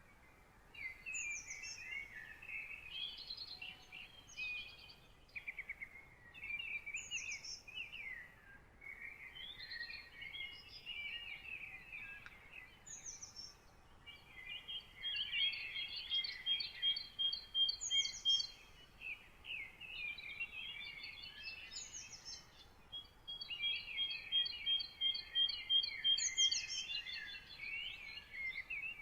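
Several songbirds singing in overlapping phrases of chirps and warbles, with short pauses between phrases. Twice, about halfway through and again near the end, one bird sings a long run of rapidly repeated high notes.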